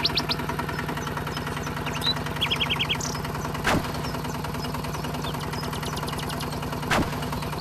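Small motor running steadily with a low hum, most likely the miniature DIY tractor's drive motor. Two sharp clicks come about four seconds in and near the end, with quick high chirps over the top.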